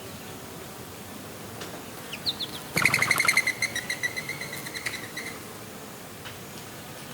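A bird's rapid chattering call: two short high chirps, then a loud fast run of notes that slows over about two and a half seconds, over a steady background hiss.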